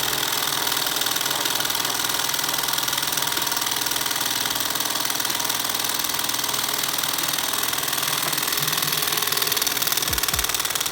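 Small Stirling engine with an epoxy piston running steadily at a little over 1200 RPM. A couple of short low thumps come near the end.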